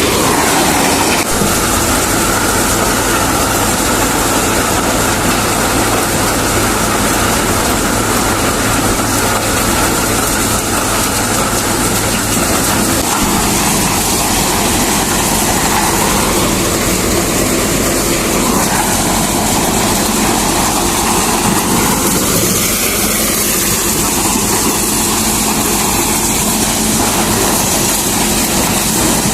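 Tractor-driven Reinforce P-335 maize thresher running steadily with the tractor engine, a loud even mechanical hum and rattle whose pitch shifts about halfway through.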